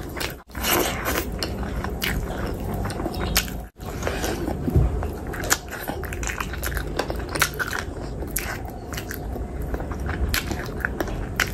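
Close-miked eating: wet chewing and biting of curry-soaked chicken, with many small mouth clicks and smacks. The sound cuts out briefly twice in the first four seconds.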